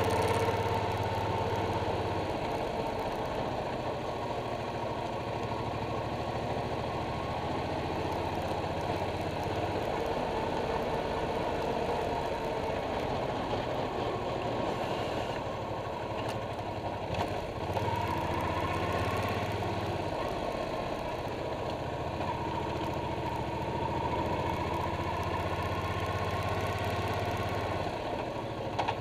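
Suzuki Boulevard C50's 805 cc V-twin engine running while the motorcycle rides along at low speed. It is heard up close from a camera clamped to the front bumper bar beside the engine. It is a steady, continuous engine sound whose deep low note fades and returns a few times as the throttle changes.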